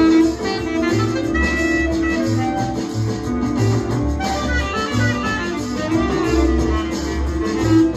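Jazz music from a studio recording: saxophone with guitar and bass, playing held melodic notes over moving low notes.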